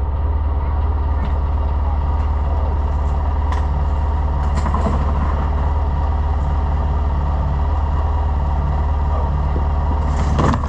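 Ranger side-by-side utility vehicle engine idling steadily while parked, with a few short knocks and clunks.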